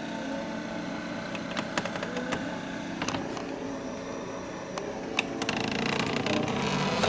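A steady hum with scattered light clicks and taps, the clicks coming more often in the last couple of seconds.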